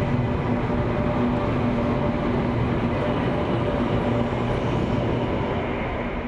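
Electric light rail train running out of the station past the platform: a steady rolling noise with a low electric motor hum. The hum drops out about four and a half seconds in and the sound fades as the train leaves.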